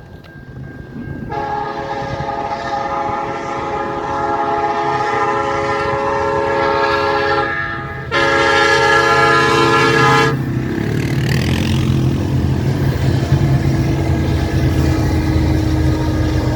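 Nathan K5LLA five-chime air horn on a CN SD70M-2 diesel locomotive sounding a long blast of about six seconds, a short break, then a second blast of about two seconds. After the horn stops, the diesel locomotives rumble steadily as the train comes closer.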